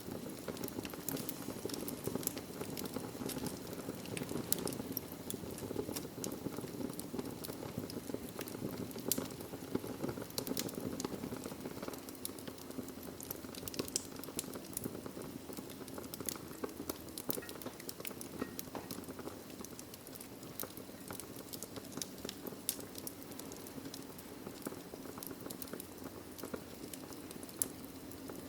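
Wood logs burning in a fireplace: a steady low rustle of flame with frequent sharp crackles and pops scattered throughout.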